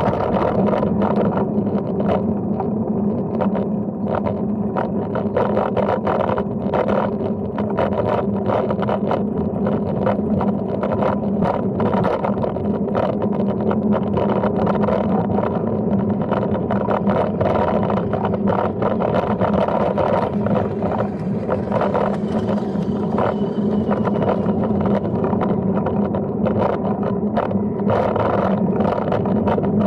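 Brompton folding bike being ridden: a steady rolling hum with frequent small knocks and rattles.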